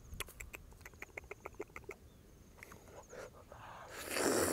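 A bird's quick run of short chirps, about eight a second for under two seconds. Near the end comes a louder noisy burst of slurping and mouth sounds as a piece of mangosteen flesh goes into the mouth.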